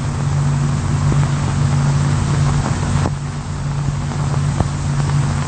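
Crane engine running steadily: a low droning hum under a wash of hiss, with a brief click about three seconds in.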